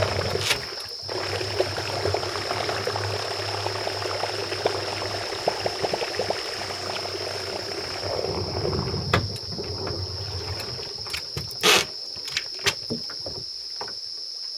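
Water splashing and trickling around a small rowboat, with a low hum for the first half, a thin high whine throughout, and several sharp knocks in the second half, the loudest about twelve seconds in.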